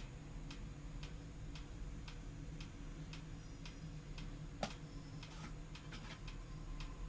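Steady, even ticking, about two ticks a second, over a low hum, with one louder click about four and a half seconds in.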